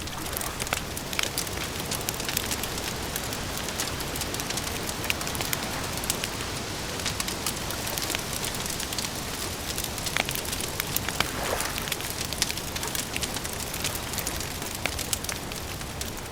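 Campfire crackling, with frequent irregular sharp pops over a steady hiss.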